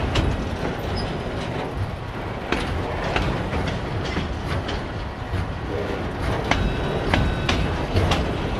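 Loaded autorack freight cars rolling past with a steady rumble, the wheels clicking over rail joints, and a few short wheel squeals partway through.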